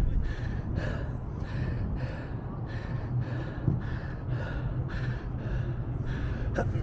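Heavy, rhythmic breathing, about two breaths a second, over a steady low hum, with a sharp click near the end.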